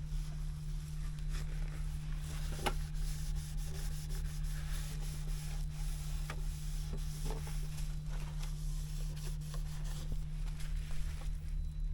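Rubbing and scraping with scattered light clicks and knocks over a steady low hum.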